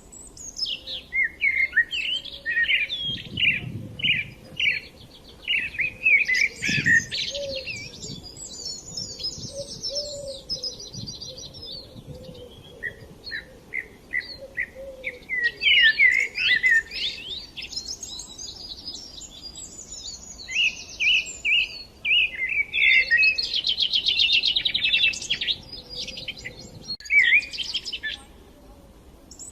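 Several small songbirds chirping and singing without pause, with quick short chirps mixed with fast rattling trills.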